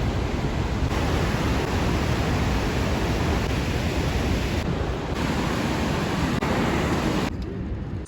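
Steady rushing of a large waterfall, the Rhine Falls, a dense even wash of falling water with a few slight shifts in level; it cuts off suddenly at the end.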